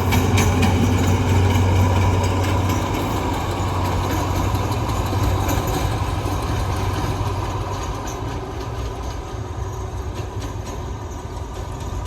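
Diesel train moving through a railway station, its engine giving a low drone with some wheel clatter in the first couple of seconds, then slowly fading as it draws away.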